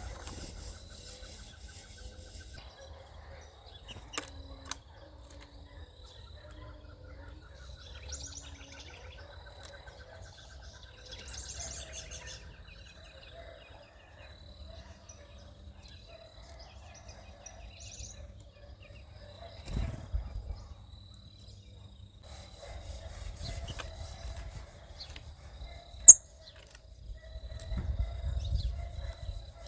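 Small birds chirping and calling, with a few short trills, over a low rumble. A few sharp clicks, the loudest near the end.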